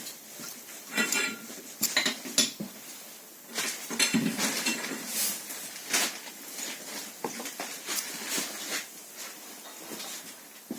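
Metal parts and hand tools clinking, knocking and scraping at an irregular pace during work on a KNORR brake caliper, some clinks ringing briefly.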